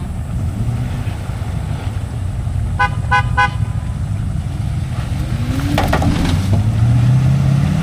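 Vehicle horn honked three short times over an idling engine, the signal to start a tow on a rope; near the end the engine revs up as the pull begins.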